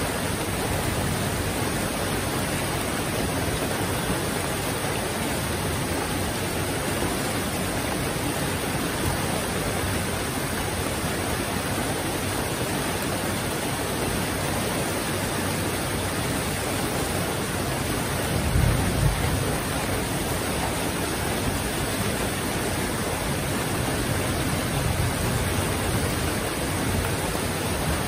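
Heavy rain falling, a steady, even hiss with no letup. About two-thirds of the way through comes a brief low rumble.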